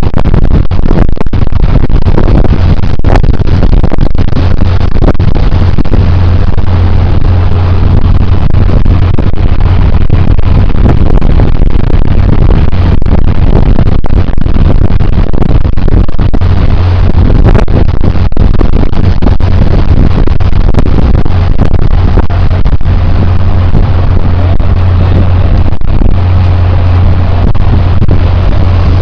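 Boat engine running steadily and very loud, with a strong low drone.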